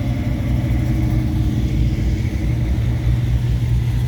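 Box-body Chevrolet Nova's engine running at low revs with a steady, deep rumble as the car rolls slowly past.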